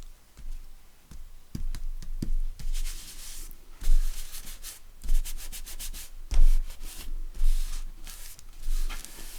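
Hands rubbing and pressing a paper bird cut-out down onto a paper tag: a papery scuffing that comes in repeated strokes, with dull bumps against the work surface.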